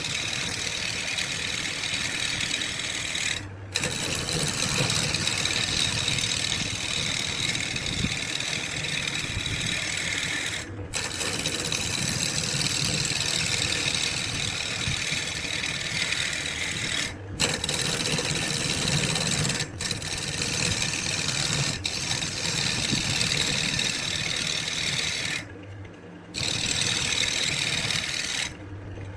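A power tool working wood, a steady rasping, grinding noise that breaks off abruptly for short moments several times and picks up again.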